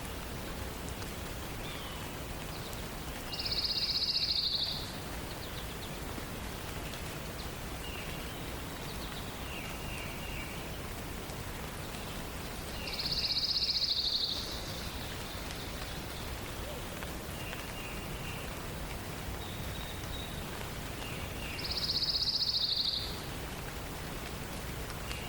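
A songbird repeating a short, high, loud song phrase three times, about every nine seconds, with softer chirping notes from other birds in between, over a steady background hiss.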